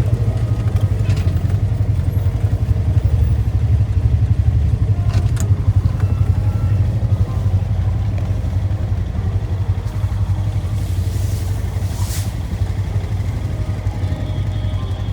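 ATV engine running steadily under way, a constant low rumble, with a couple of sharp clicks or knocks about five and twelve seconds in.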